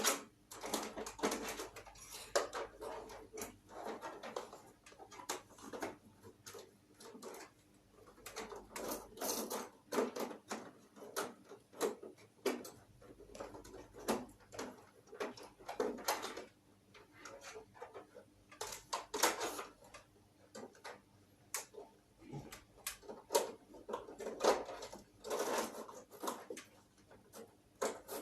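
Irregular clicks, knocks and rustles of plastic parts being handled and fitted back onto a split air conditioner: the cleaned filter being slid and snapped into place.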